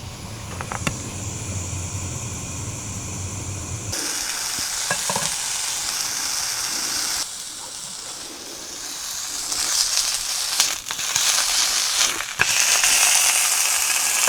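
A burger frying in a pan, a steady sizzle, with a few sharp knocks near the end.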